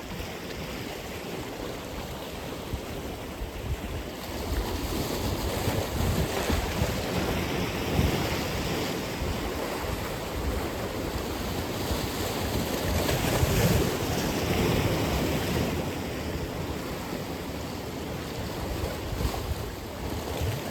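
Atlantic Ocean surf breaking and washing in, in swells that rise and fall, with wind buffeting the microphone.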